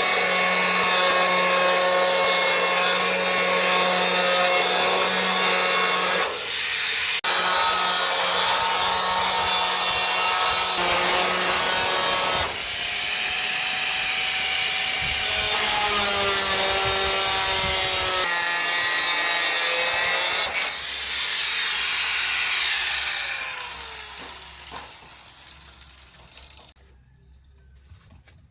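Small electric power tool motor running at speed in several stretches with brief pauses, working on material, then spinning down and falling in pitch to a stop near the end.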